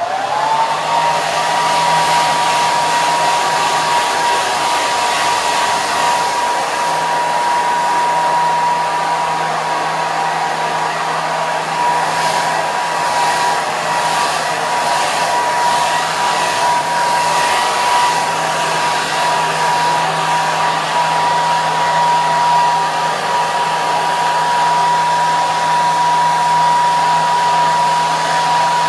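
Hair dryer running: a steady rush of blown air with a steady high whine from its motor and fan, which rises in pitch during the first second as the motor spins up to speed, then holds.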